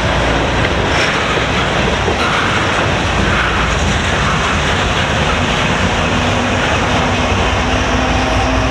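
Freight cars rolling past on the rails: a loud, steady rumble of wheels on track. A steady diesel locomotive engine hum joins about halfway through as the locomotive draws near.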